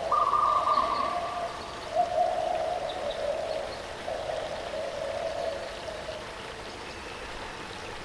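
Steady rushing of a waterfall, with a bird's long hooting calls over it: one higher note near the start, then about three lower, drawn-out notes.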